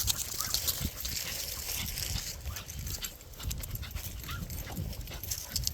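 Dog whining, two short rising whines, over a low rumble.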